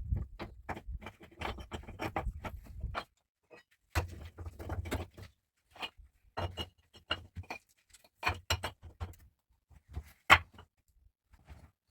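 Irregular knocks, taps and clatter of objects being handled, with dull thuds between them and one sharp click about ten seconds in.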